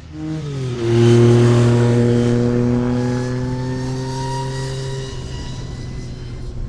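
An engine passing close by: a steady pitched note that drops in pitch as it goes past about a second in, then slowly fades away.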